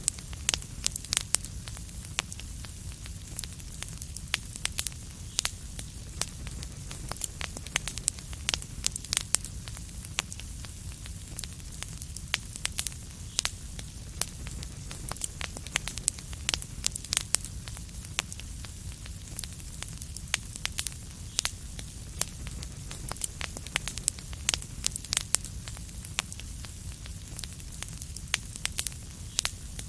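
Wood fire crackling: frequent sharp, irregular pops and snaps over a steady low rumble of flame.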